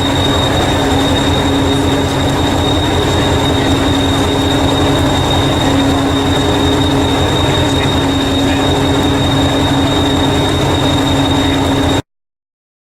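A train running, with a steady high-pitched whine over a fast, even low rumble. It cuts off suddenly near the end.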